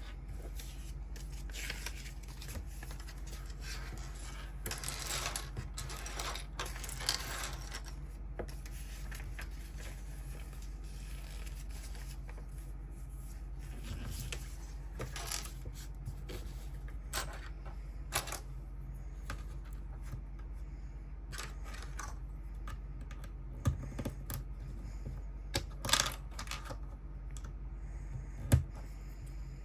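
Lego set being unboxed by hand: packaging rustling and crinkling in short bursts, with scattered small clicks and taps of plastic pieces and parts, over a steady low hum. The sharpest clicks come near the end.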